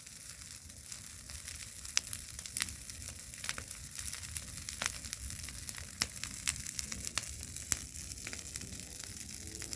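Large bonfire of dry brush burning hot, with a steady hiss and frequent sharp, irregular crackles and pops.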